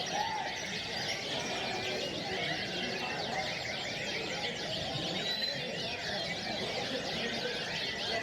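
Many caged canaries singing at once, a dense, continuous tangle of quick chirps and trills, over a low murmur of voices.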